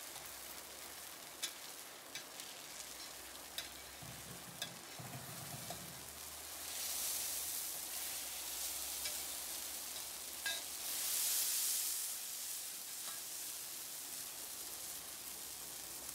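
Chile-sauce-dipped tortillas frying and sizzling in oil on a steel comal, with a few light clicks of a metal spatula against the pan. The sizzle swells louder about seven seconds in and again around eleven seconds.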